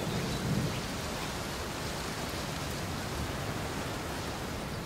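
Artificial rain from a zoo enclosure's rain system falling steadily, an even hiss with no distinct drops.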